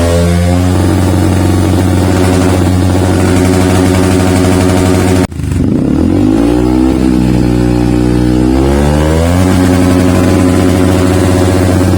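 Yamaha WR155's single-cylinder four-stroke engine revving through a Triton CR-5 full-system stainless steel aftermarket exhaust, held at high revs at first. About five seconds in the sound breaks off sharply and comes back at lower revs, then climbs in steps to a held high rev.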